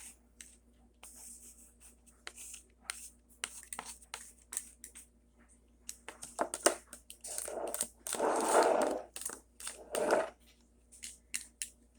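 Light scrapes, rubs and small clicks of hands working on a plastic model, with a longer rasping rub from about seven to ten seconds in.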